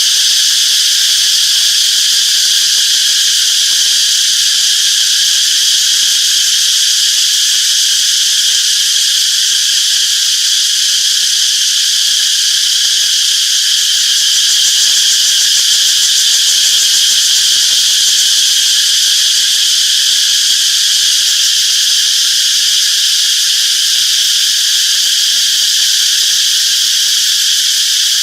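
A chorus of cicadas singing: a steady, continuous high-pitched buzz with no breaks or pauses.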